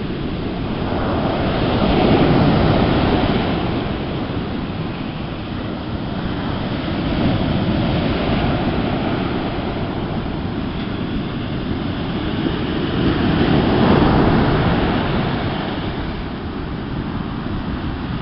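Sea surf washing on the shore, a steady rush that swells loudest twice, about two seconds in and again near fourteen seconds, with a smaller swell in between. Wind buffets the microphone underneath.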